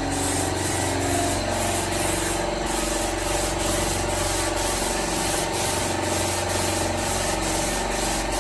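Electric power tool rubbing over a car bumper's surface: a steady motor hum under a continuous scratchy sanding noise.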